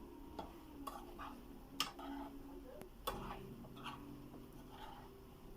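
Spoon or spatula clicking and scraping against a cooking pan as a thick, dry chicken curry is stirred. Faint, irregular clicks, two sharper ones near the middle.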